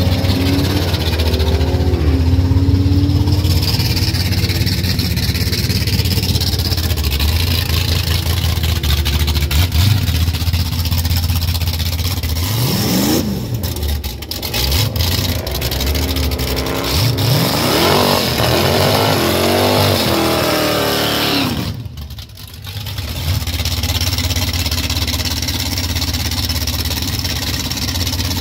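Engines of a Mustang GT and a third-generation Camaro drag car running loudly at idle. In the middle the engine is revved several times, each rev rising and falling quickly in pitch.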